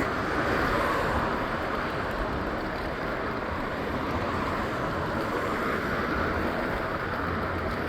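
Steady rushing wind and road noise from riding a Bird electric scooter, heard on a phone microphone mounted on the scooter.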